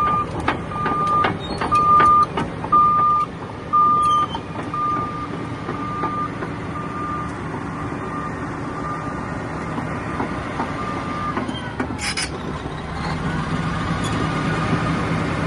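Caterpillar D10R bulldozer with its diesel engine running and its reverse alarm beeping about once a second. The beeps are loud at first, fade and stop about three-quarters of the way through. A short sharp noise follows, and then the engine gets louder.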